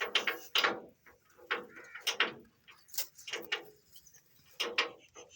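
Irregular knocks and clanks of steel being struck and handled, about ten in five seconds, each ringing briefly.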